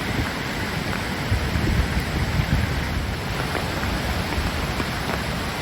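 Steady rush of hurricane floodwater and storm noise, with wind buffeting the microphone in uneven low gusts.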